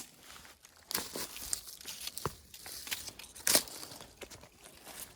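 Footsteps crunching and rustling through dry leaf litter and twigs on a forest floor, in uneven steps, the loudest about three and a half seconds in.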